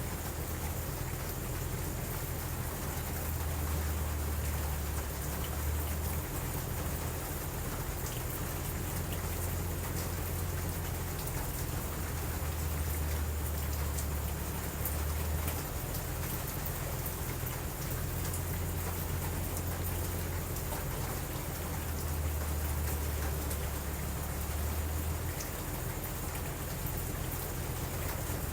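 Steady rain falling, with a low rumble that swells and fades several times.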